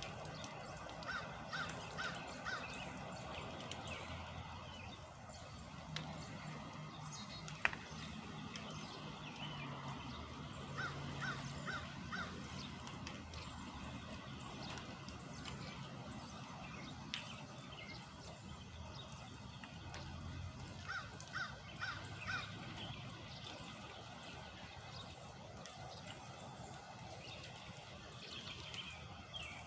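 Crow cawing in short series of about four calls, three times over, against a steady low background hum.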